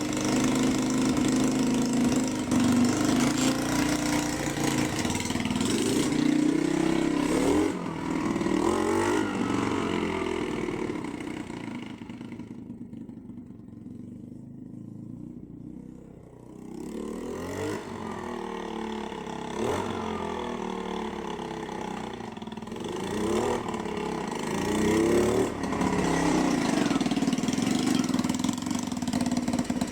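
Small Chinese Honda-clone four-stroke motorcycle engine running and revving up and down repeatedly. Its sound drops away for a few seconds about halfway, then comes back and settles into a steady note.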